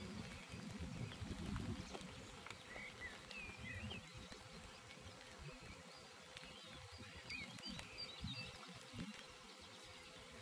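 Faint small birds chirping now and then over a low wind rumble.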